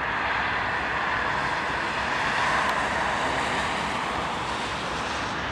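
Norfolk Southern freight train passing, a steady rushing noise that swells slightly about halfway through.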